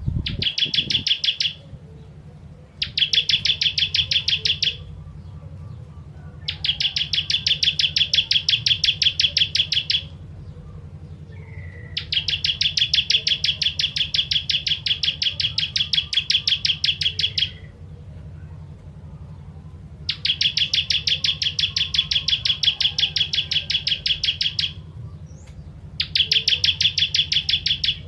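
Ciblek kristal (bar-winged prinia) singing in six bursts of fast, evenly repeated chips, each burst lasting two to five seconds with short pauses between. A steady low hum runs underneath.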